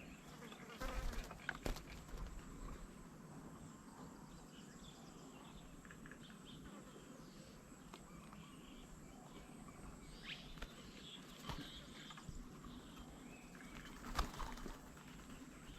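Outdoor garden ambience with insects buzzing and a thin, steady high insect drone, plus a few short bird chirps. Brief louder bursts come about a second in and again near the end.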